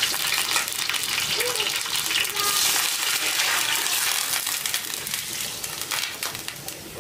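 Food frying in a pan: a steady sizzle dense with small crackles, easing off near the end.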